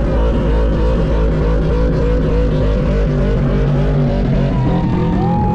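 Burnout truck engine revving hard and repeatedly while drifting, with a thin tyre squeal near the end. Music plays underneath.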